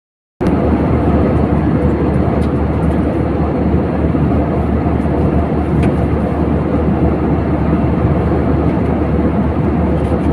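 Steady cabin noise of an airliner, engines and rushing air heard from inside the passenger cabin, cutting in abruptly about half a second in.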